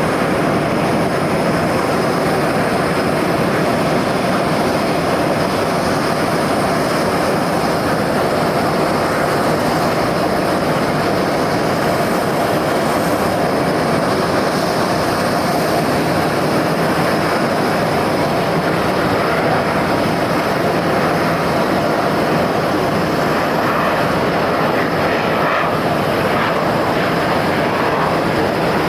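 F-22 Raptor's twin Pratt & Whitney F119 turbofan jet engines running steadily, a constant loud roar with a steady whine over it.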